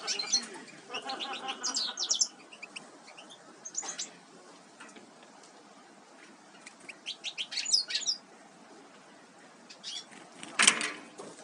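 Small songbirds chirping in short clusters of quick high notes, several times over, with a louder brief rustle near the end.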